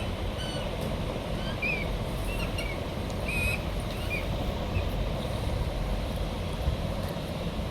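Short, thin, high bird chirps, about a dozen spread through, over a steady low rumble.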